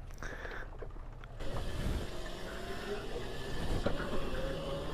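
Stock electric pit bike pulling away, its motor whining and rising in pitch as it gathers speed, over a rushing noise of wind and tyres.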